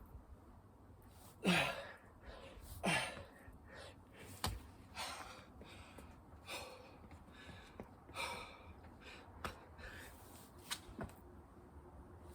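A person breathing hard from exertion, with sharp gasping breaths about every one to one and a half seconds and a single thud about four and a half seconds in.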